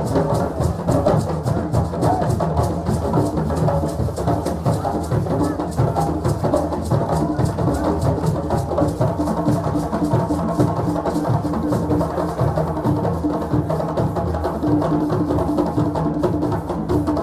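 Fast, steady rhythm of hand drums with other percussion, played continuously in a dense groove.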